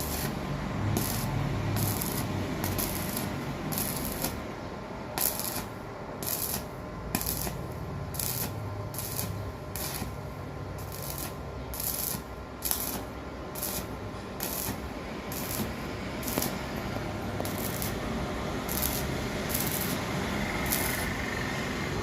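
Repeated scraping strokes on metal, roughly one to two a second and unevenly spaced, over a steady hiss, as in filing or brushing down a workpiece in metalwork.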